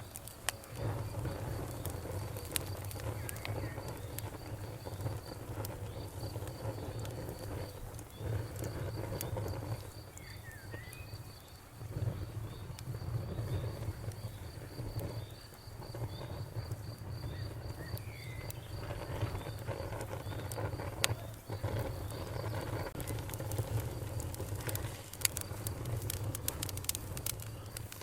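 Campfire crackling and popping over a steady low rumble of burning, with the pops coming thicker near the end. An insect chirps in a rapid, even high pulse through most of it and stops about three quarters of the way through; a couple of short bird calls come in between.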